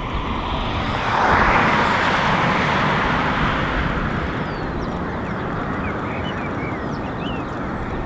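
Boeing 747-400's four General Electric CF6-80C2 turbofan engines, a loud broad jet roar that swells about a second in and then holds steady.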